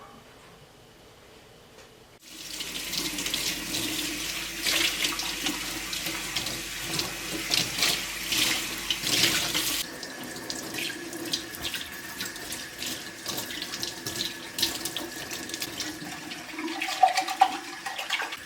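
Kitchen sink tap turned on about two seconds in, water running and splashing into the sink; the flow becomes quieter about ten seconds in. A few sharp knocks near the end.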